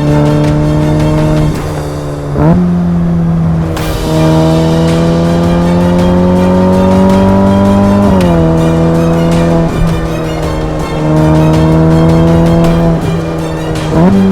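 Ferrari F8 Tributo's 3.9-litre twin-turbo V8 held at raised revs, the engine note creeping up and dropping back twice, with a quick sharp blip of the throttle about two seconds in and another near the end.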